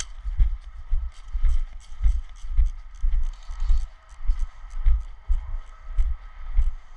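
Footsteps of a person walking at a steady pace: dull low thuds a little under two a second, with faint rustling between them.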